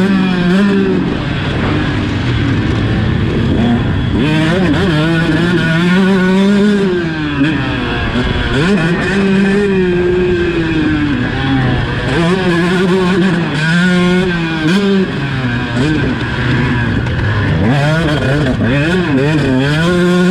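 125cc two-stroke motocross bike engine being ridden hard, revving up and dropping back over and over as it accelerates and shuts off through the track's sections.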